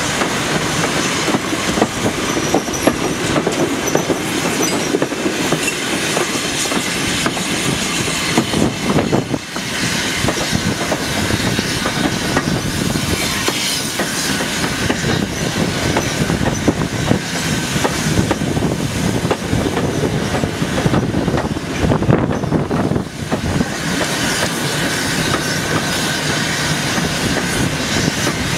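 Heritage railway train in motion, heard from aboard: a steady rumble of wheels on the rails with clicking over the rail joints, which dips briefly twice.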